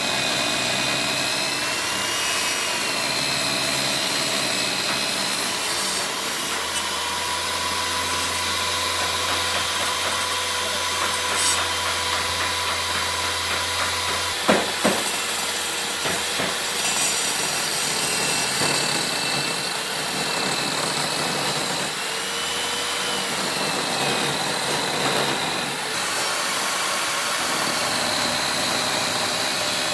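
A power tool running steadily on wood, with two sharp knocks about halfway through.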